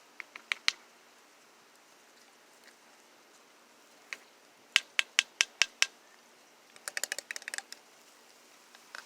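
A series of sharp clicks: a few in the first second, a run of six evenly spaced clicks about five a second around the middle, and a quick flurry near the end.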